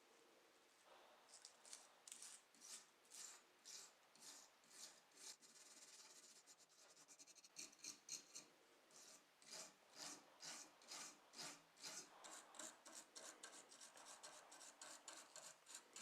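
Faint, rhythmic rubbing strokes of hand abrasive work. They start about a second in at roughly one and a half strokes a second and grow faster and denser later.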